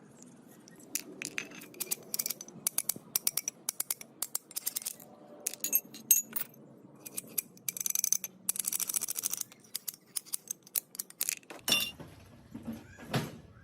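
Small metal parts and hand tools clinking, tapping and scraping in quick irregular strikes, with a longer scraping stretch partway through and two heavier knocks near the end.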